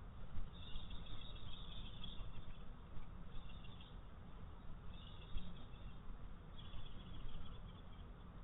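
Small songbirds singing in four short, high twittering phrases over a steady low outdoor rumble.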